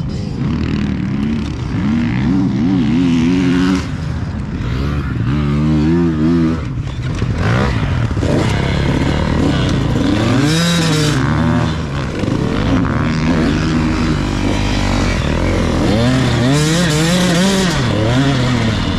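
Husqvarna TC 85 two-stroke 85 cc motocross bike being ridden, its engine revving up and down again and again as the throttle is opened and closed.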